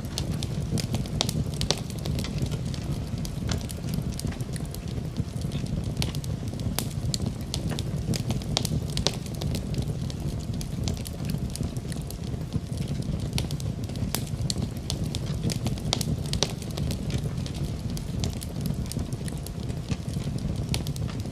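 Fire burning in a fireplace, crackling with many irregular sharp pops and snaps over a steady low rumble of the flames.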